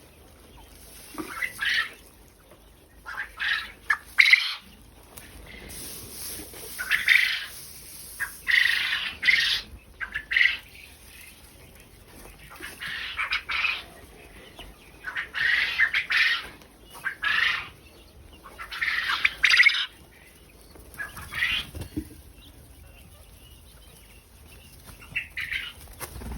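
Quail in their pen squawking and fluttering their wings in short, repeated bursts, about one every second or two, thinning out near the end.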